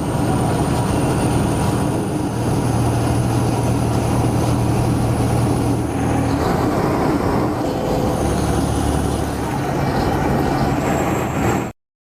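Heavy truck engine running with a steady low rumble and a thin high whine; the sound cuts off suddenly near the end.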